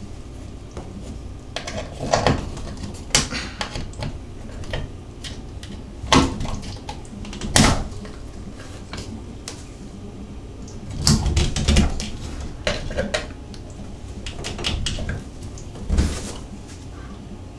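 Irregular clicks, knocks and scrapes of metal parts and tools being handled while the retaining pin of a Moen shower valve cartridge is worked back into place, with a cluster of knocks about eleven seconds in.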